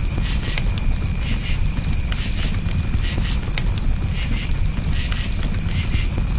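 Crickets chirping in repeated pulses about once a second over a crackling campfire, with sharp pops from the fire and a steady low rumble underneath.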